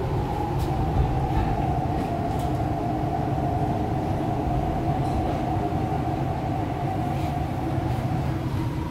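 MTR R-Train electric multiple unit heard from inside the car while running, a steady low rumble with a steady mid-pitched electric motor whine over it that fades out near the end.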